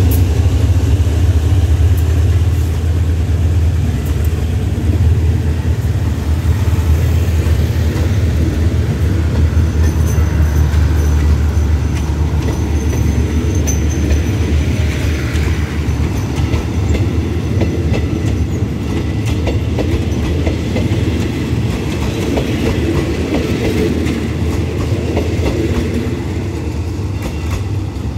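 Passenger coaches of a departing express train rolling past close by: a steady low rumble with wheels clicking over the rail joints, easing off a little near the end as the last coach goes by.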